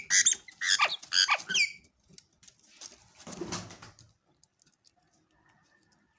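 Lovebird chicks calling during feeding: about five loud, shrill chirps in the first two seconds, each dropping in pitch, then a short rustle about three seconds in and faint ticking.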